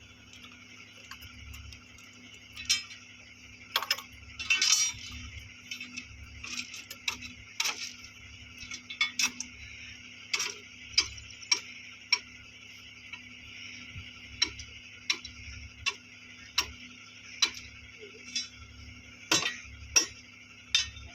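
Irregular sharp metallic clicks and taps, roughly one a second, from hand tools working on metal fittings, over a steady faint background hum.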